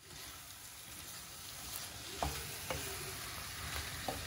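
Fried chicken pieces sizzling in a pan of spiced masala as they are stirred, with a few short knocks of the spoon against the pan.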